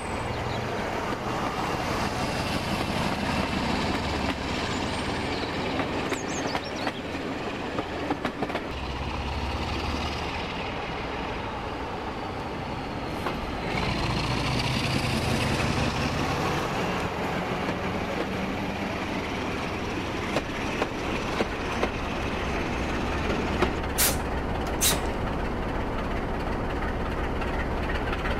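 British Rail Class 47 diesel locomotive engine sound played for an OO gauge model: a steady low drone that steps up about nine and fourteen seconds in, like throttle notches. Several sharp clicks come later.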